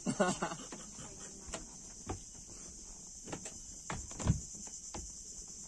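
Steady high-pitched chorus of insects, crickets or cicadas, with a few short knocks or thumps over it, the loudest about four seconds in.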